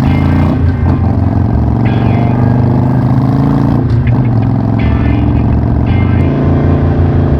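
Harley-Davidson Sportster's air-cooled Evolution V-twin engine running under way, loud and steady with small rises and dips in pitch.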